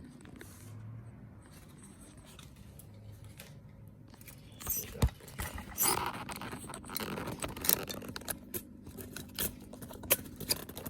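Handling noise from the camera being adjusted. It is quiet for the first four seconds or so, then comes a run of clicks, knocks and rustling, with a sharp knock about five seconds in.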